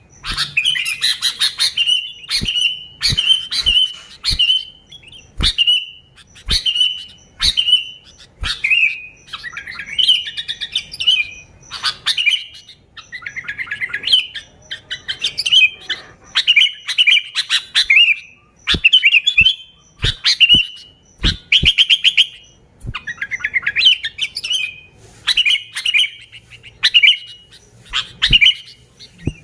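Sooty-headed bulbul (kutilang) singing: short, bubbly whistled phrases repeated about once a second, in the lively, persistent song used to lure other bulbuls.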